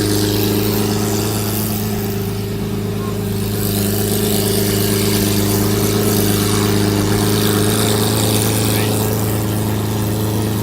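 Lamborghini Aventador LP750-4 SV's 6.5-litre V12 idling with a steady, even note.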